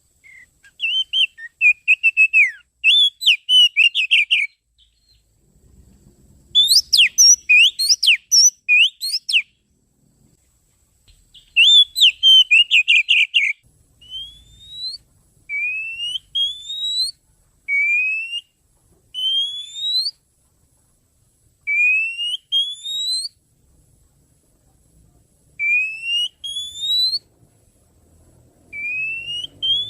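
Oriental magpie-robin (kacer) song from a bird-lure recording. It opens with three bursts of fast, varied chattering and whistled phrases, then changes to single rising whistles repeated about every two seconds.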